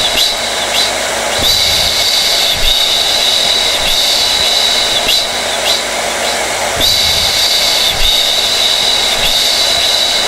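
Hair dryer running steadily: a high-pitched whine over a constant rush of air, with the whine briefly flickering about once a second.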